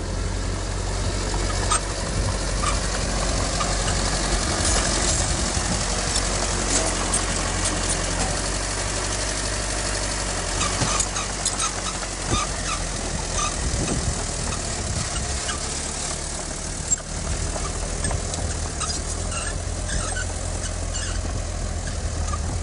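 Diesel engine of heavy earthmoving machinery running steadily with a deep hum, with scattered metallic clicks and short squeaks over it.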